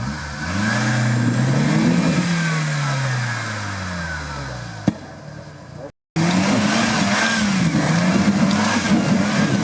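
Off-road vehicle's engine revving hard under load: the pitch climbs, then sags slowly over a few seconds. After a short break, it revs up and down in quick repeated surges, as when a driver works the throttle to claw up an obstacle.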